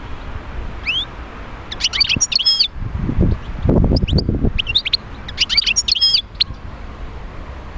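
European goldfinch song: several bursts of quick twittering chirps and trills with pauses between, and a low rumble a few seconds in.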